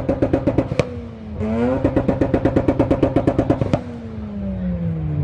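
Rotary engine revved hard and held against its rev limiter, stuttering about twelve times a second. About a second in the revs drop briefly, then climb back to the limiter and hold. Near the end the revs fall away.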